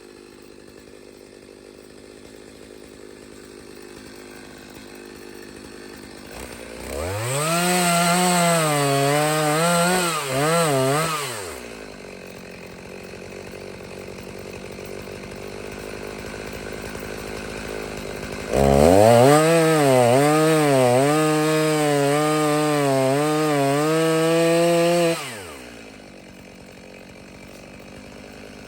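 Chainsaw making two cuts through a downed tree for firewood rounds. It revs up for about four seconds, drops back, then revs up again for about six and a half seconds, its pitch wavering as it bogs under load in the wood. Between and after the cuts it runs at a much lower level.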